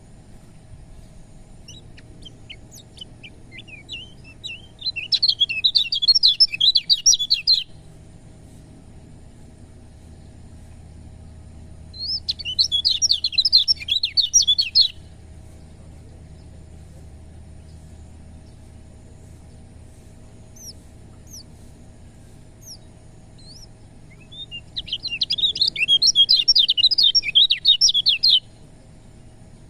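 Kecial kuning white-eye singing: three bursts of fast, high twittering chirps, each two to three seconds long, with a few single chirps between them.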